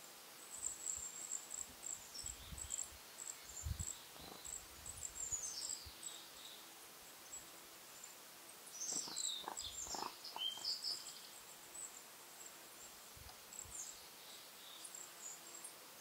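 Small birds calling in woodland: a scatter of thin, high-pitched chirps with a couple of brief falling song phrases, about five and nine seconds in. Soft low rumbles come and go underneath.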